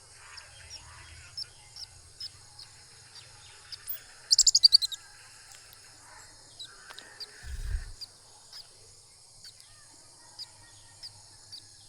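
Short, high, downward chirps repeating about twice a second over a steady high hiss. About four seconds in comes a quick, louder run of about eight chirps, and a low thump follows near the eight-second mark.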